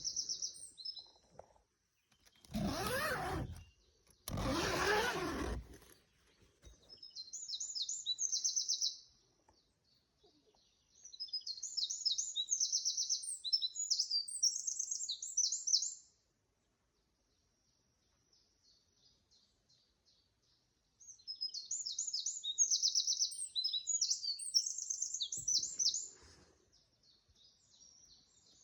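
A songbird singing rapid, high trilling phrases a few seconds long, with pauses between them. About three and five seconds in, two loud bursts of noise, each about a second long, are as loud as the song.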